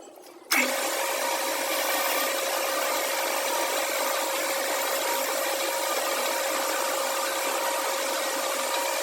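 A workshop machine switches on about half a second in and runs steadily, a constant whirring noise with a steady hum in it.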